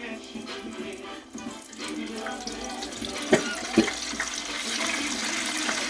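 Chicken legs frying in hot olive oil: a hiss of sizzling that swells from about two seconds in and then holds steady, with two sharp knocks just after the middle.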